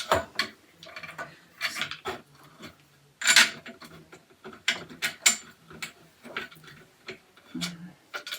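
Clicks and clattering knocks of flat-pack shoe rack parts being handled and fitted together, the loudest knock about three seconds in.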